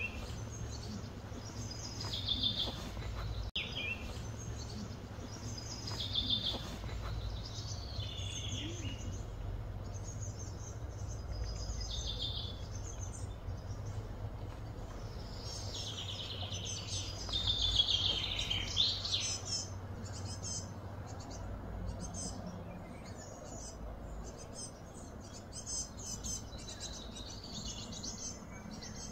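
Outdoor birds chirping and calling repeatedly, with short trills and chirps that come thickest in a burst in the middle, over a steady low background hum.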